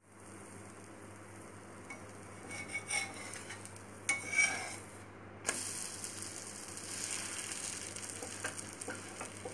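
Egg-dipped bread frying in ghee on a cast-iron tawa, sizzling, with a steel spatula scraping the pan a few times as it slides under the slice. The sizzle becomes fuller and louder about five and a half seconds in, once the slice is turned onto its raw side.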